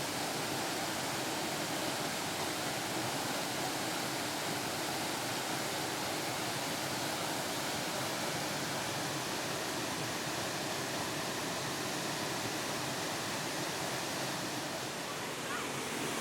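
Steady rushing of flowing water from a mountain creek or waterfall, an even unbroken roar.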